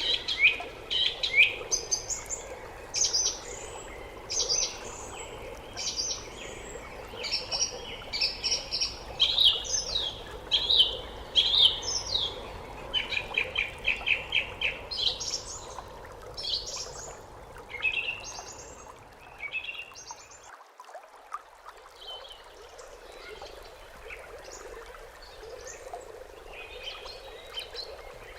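Songbirds chirping and singing, with many short sweeping notes and a rapid trill, over a steady background hiss. About twenty seconds in the low background cuts off suddenly and the calls thin out.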